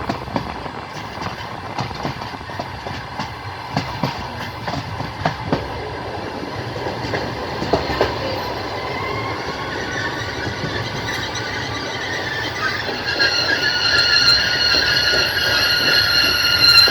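Passenger train wheels clattering over the rail joints with a steady rumble. From about halfway, a high, steady wheel squeal sets in and grows louder near the end.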